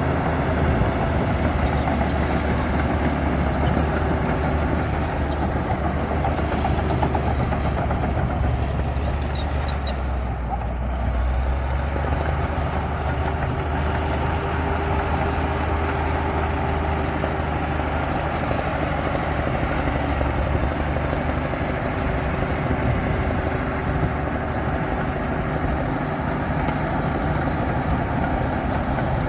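Komatsu D60P crawler bulldozer's diesel engine running steadily, its note easing slightly about ten seconds in and picking up again a couple of seconds later.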